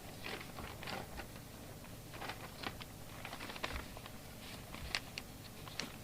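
Faint scattered clicks and light rustles of handling at a workbench, irregular and a few to the second, over a steady low background hiss.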